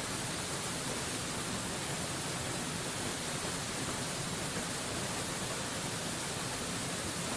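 Mountain waterfall: a steady, even rush of falling water with no changes in level.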